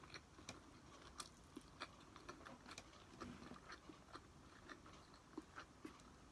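Close-up eating sounds: a person chewing a mouthful of food, with many small irregular mouth clicks and smacks.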